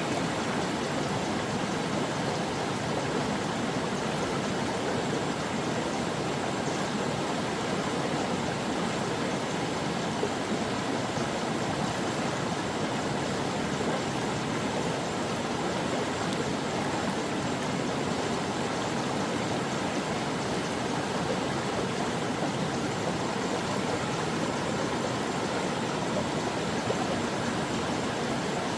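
Stream water flowing and babbling over rocks, a steady, even rush without breaks.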